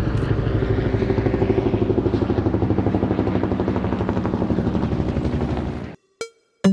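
Helicopter running steadily, its rotor giving a fast, even chop. It cuts off suddenly about six seconds in, and a couple of electronic drum hits follow.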